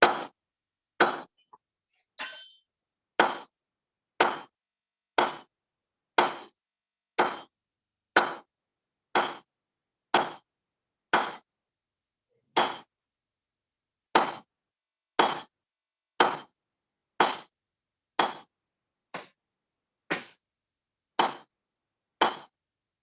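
Hammer blows forging steel on an anvil, about one blow a second, each a sharp strike with a short metallic ring. There is a slightly longer pause a little past halfway.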